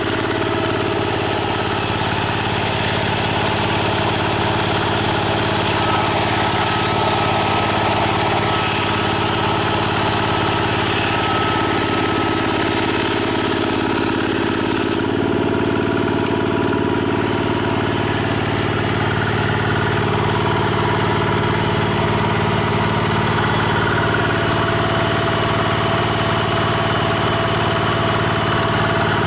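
Kubota EL300 4-horsepower direct-injected diesel of a homemade generator running steadily under a 1500-watt hairdryer load. Its note changes about halfway through.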